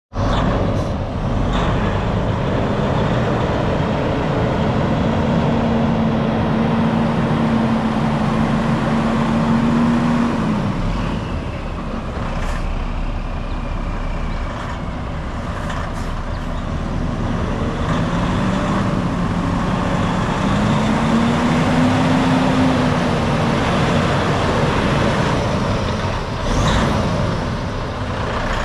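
2011 Freightliner Cascadia semi-truck tractor's diesel engine running, with its pitch rising and holding for several seconds twice, about four seconds in and again near twenty seconds, with a few light clicks.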